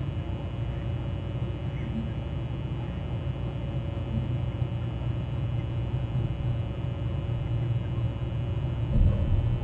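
Steady low rumble of outdoor background noise, with a brief thump about nine seconds in.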